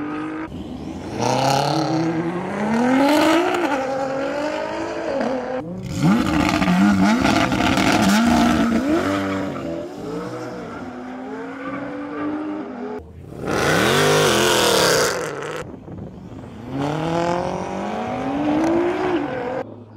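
High-performance cars accelerating hard down a drag strip, their engines rising in pitch and dropping back at each gear change. It comes as several short clips cut abruptly one after another, the loudest runs about six and thirteen seconds in.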